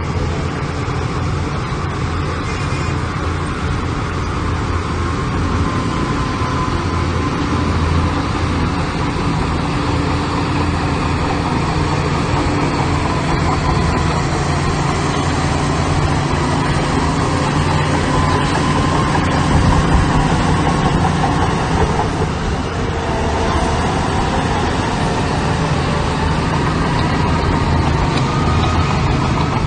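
Heavy diesel engine of earth-moving machinery running steadily under load, with a higher whine that wavers up and down in pitch.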